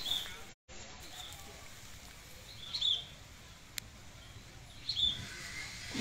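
Short, high bird chirps repeating irregularly every second or two over faint outdoor background noise.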